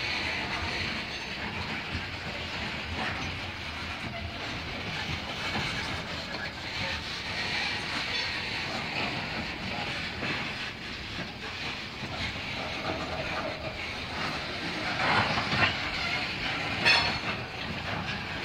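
Loaded coal cars of a long Norfolk Southern freight train rolling slowly past: steel wheels clicking over the rail joints, with the cars creaking and squealing faintly. A couple of louder knocks come near the end.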